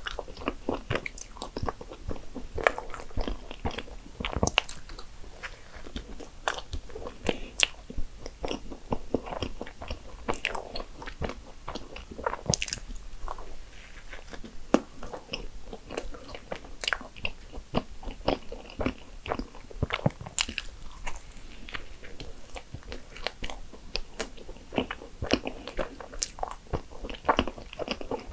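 A person biting and chewing cream-filled maritozzo buns, soft brioche and whipped cream, with many small, irregular mouth clicks and smacks.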